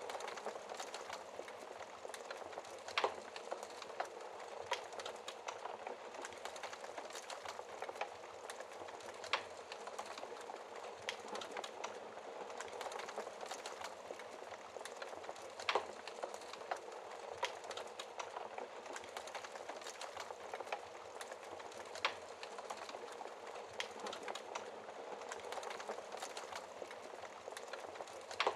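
Wood fire crackling in a fireplace: a steady bed of small crackles with about five sharper pops.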